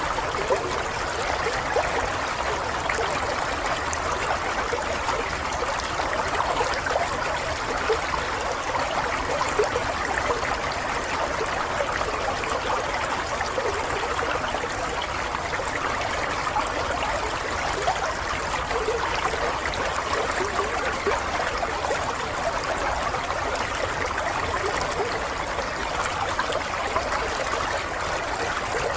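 Water running and trickling steadily, like a small stream, with fine bubbling and splashing detail and no pauses.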